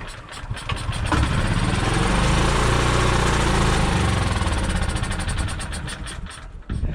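Small carbureted engine catching and running unevenly for a few seconds. It picks up speed, then slows and dies out near the end. It will not keep running, which the owner puts down to a carburetor that still needs cleaning or rebuilding.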